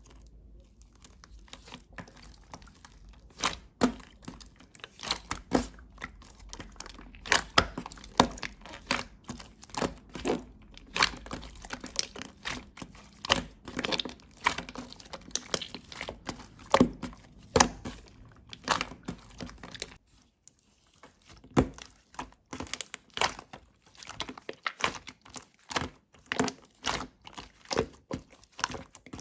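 Slime being pressed and stretched by hand, giving a steady run of irregular crackling pops and clicks, with a brief lull about two-thirds of the way through.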